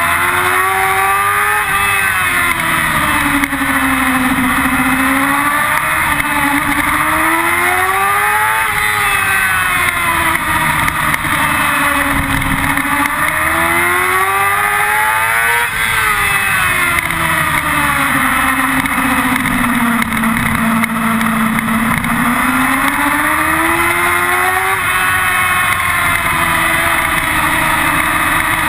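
Yamaha R6's inline-four engine heard from an onboard camera at track speed. Its pitch climbs and drops again and again as it is revved hard and backed off through corners, and it holds a lower steady note for a few seconds about three-quarters of the way through. A constant rush of wind and road noise runs underneath.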